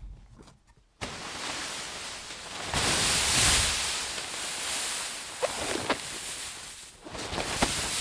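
Snow sliding down a tent's flysheet: a long rushing hiss that starts suddenly about a second in, swells a couple of seconds later and keeps going, with a few sharp taps.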